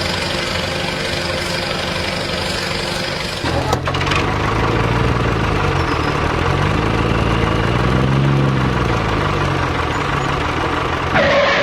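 An engine running steadily. About three and a half seconds in, the sound changes and its pitch rises and falls several times.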